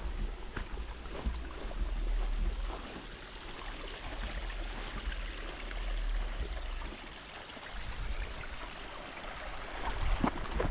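Steady outdoor rushing noise, with wind rumbling on the microphone and a few light clicks.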